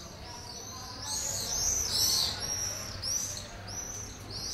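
Many small birds chirping at once, a chorus of short, overlapping high chirps that grows loudest a second or two in.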